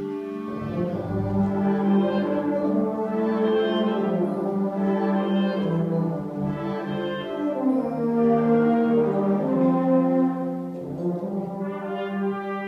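Concert wind band playing, with brass and French horns carrying sustained, shifting chords that settle onto a held chord near the end.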